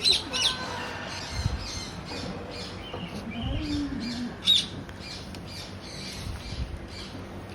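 Macaw squawking: a series of short, harsh calls with some chirps between them, the loudest about four and a half seconds in.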